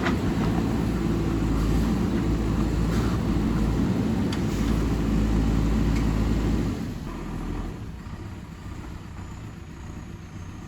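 JCB backhoe loader's diesel engine working hard with a steady low rumble and a few short knocks, then easing off about seven seconds in to a quieter run.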